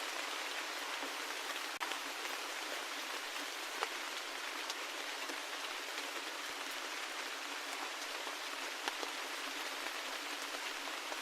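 Steady rain: an even hiss of falling rain with scattered single drops ticking through it, a few louder ones about two, four and nine seconds in.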